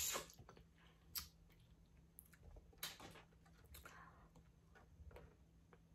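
Faint eating sounds from a seafood boil: quiet chewing with a few scattered clicks and smacks, the loudest a brief burst right at the start.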